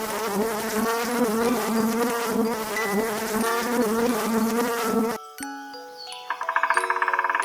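A flying insect buzzing with a steady, slightly wavering hum, cutting off suddenly about five seconds in. Then soft music of held bell-like notes with a fast trembling tone begins.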